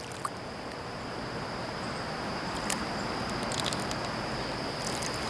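Outdoor ambience: a steady high-pitched insect drone over an even rushing noise, with a few faint clicks.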